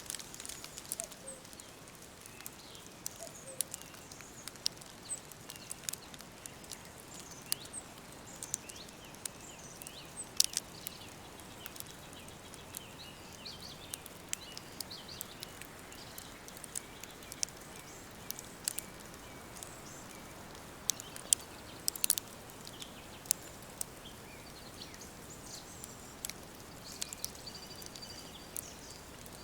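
Wood fire crackling, with irregular sharp pops over a soft steady hiss, and faint bird chirps in the background.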